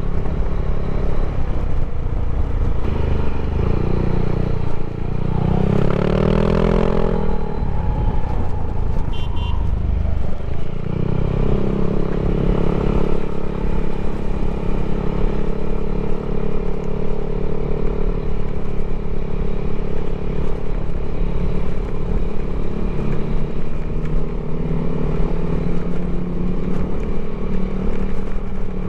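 Yamaha Aerox scooter engine, bored and stroked to 200cc, running steadily, revved up and back down about five seconds in and rising again briefly a few seconds later.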